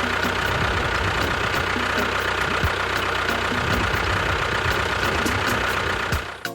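Tractor engine running steadily with a knocking beat, dying away near the end.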